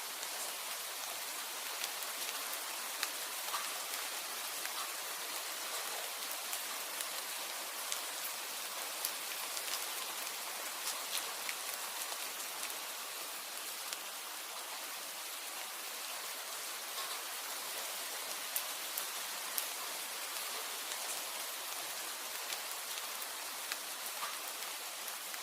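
Steady rain falling, a dense even hiss with many scattered sharp ticks of individual drops.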